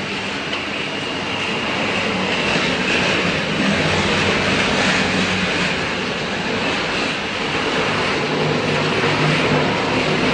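Snack production line machinery running under test: a loud, steady mechanical din with a low hum underneath.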